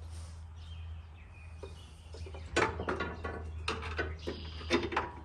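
Cordless impact wrench firing in short, irregular bursts on a sway bar end link nut, starting about halfway through, over a steady low hum.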